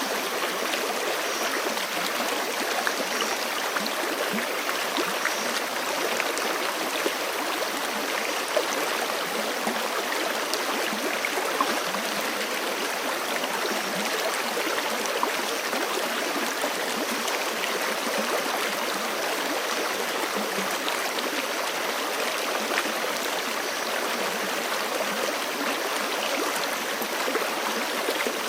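Forest creek running over rocks: a steady rush of water with small splashes and gurgles throughout.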